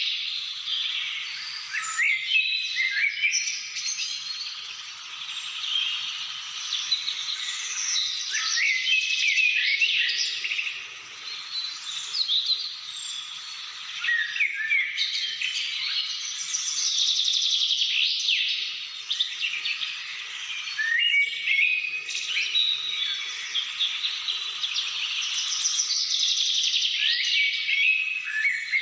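Several wild birds singing and calling at once, a dense chorus of overlapping quick chirps, whistles and trills that swells and fades every few seconds.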